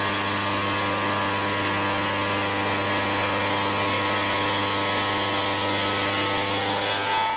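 CNC quartz stone router running steadily, a dense whine and hiss over a low hum. The sound changes abruptly right at the end.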